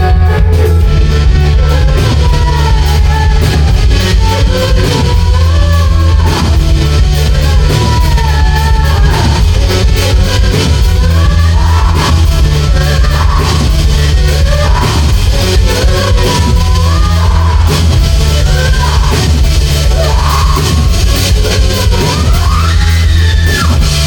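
Live rock band playing loud, heavy music: electric guitar, bass and drum kit, with a wavering sung line over a steady beat.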